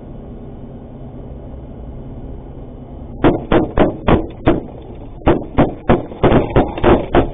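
Steady engine and road drone inside a cash-in-transit truck's cabin, then, about three seconds in, a rapid, irregular volley of loud sharp bangs, about a dozen in four seconds: gunfire as the armoured truck comes under attack.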